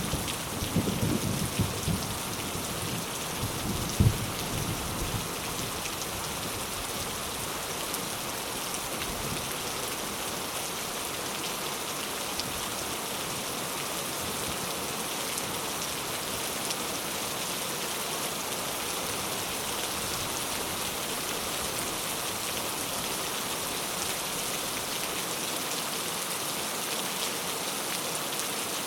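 Steady heavy rain with a continuous hiss of drops on surfaces. In the first couple of seconds a low rumble of thunder dies away, and about four seconds in there is one short, sharp thump.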